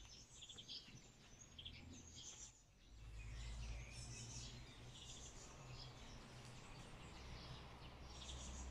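Near silence: faint bird chirps over a low steady hum, with everything dropping out briefly a little under halfway through.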